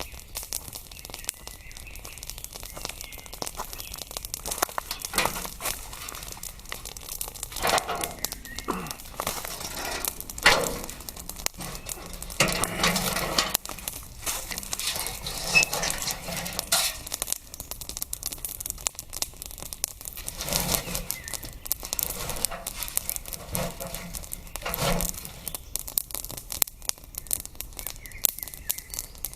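Irregular crackling and rustling with scattered sharp snaps, a few louder than the rest.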